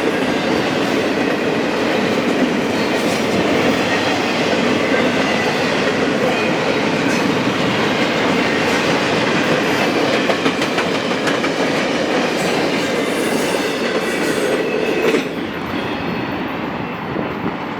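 Train passing close by, its cars' wheels rolling and clacking over the rail joints in a steady rushing rattle. About fifteen seconds in the noise drops suddenly and carries on more quietly.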